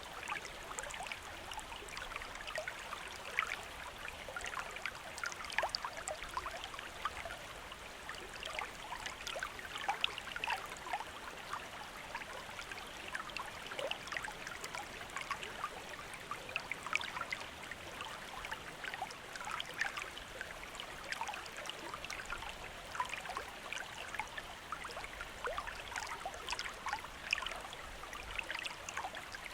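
Small river or stream flowing over rocks: a steady babble of running water, thick with small splashes and gurgles.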